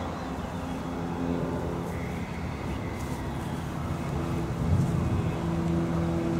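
A car engine idling steadily, growing a little louder about four and a half seconds in.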